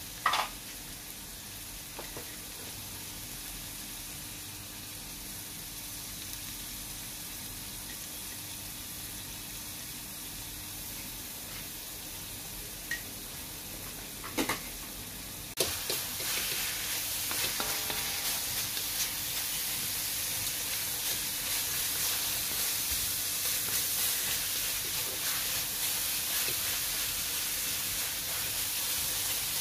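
Ground pork sizzling in a hot wok, a steady frying hiss with a couple of sharp knocks. About halfway through, the sizzle suddenly grows louder, and near the end a spatula stirs the meat around the pan.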